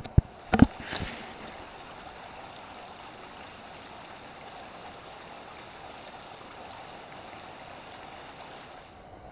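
Three or four sharp knocks in the first second, then a steady rushing noise that stops shortly before the end.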